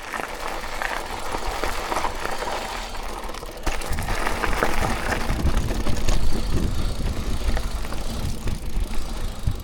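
Mountain bike rolling down a dirt trail: tyre noise with scattered rattles and clicks, joined about four seconds in by a heavier low rumble that goes on to the end.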